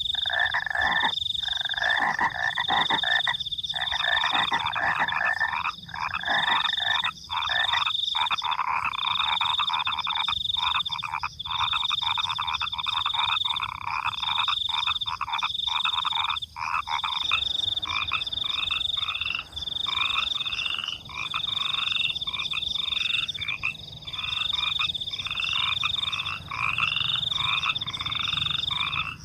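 Frogs croaking and crickets chirping together in a dense night chorus. The lower frog calls thin out a little past halfway, while a high, evenly pulsing trill carries on.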